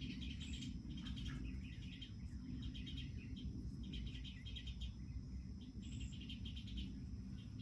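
Small birds chirping in short, rapid trills, again and again, over a steady low background rumble.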